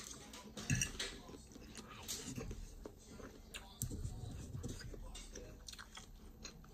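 Someone chewing a mouthful of food, with a few light clicks of a metal fork against the plate.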